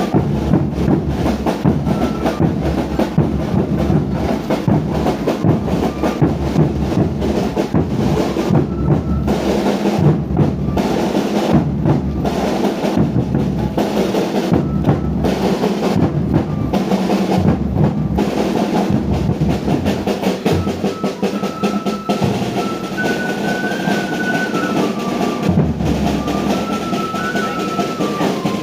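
Rapid, continuous drumming. In the last third a high melody line joins in over the drums.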